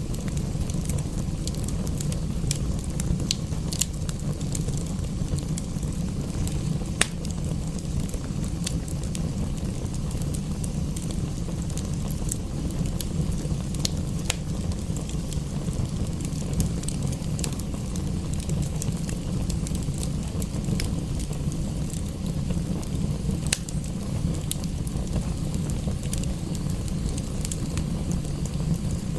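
Wood fire crackling in a fireplace: frequent sharp pops and snaps at irregular moments over a steady low rumble.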